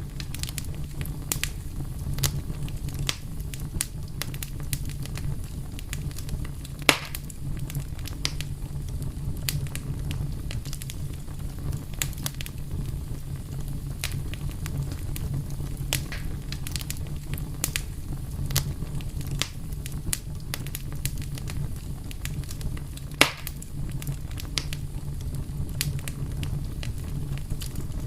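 Fire crackling steadily over a low rumble, with many small snaps and two louder pops, one about a quarter of the way in and one near the end.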